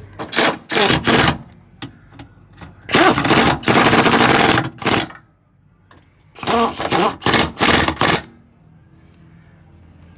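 A workshop power tool rattling in bursts: a few short bursts, then one long burst of about two seconds, then another run of short bursts.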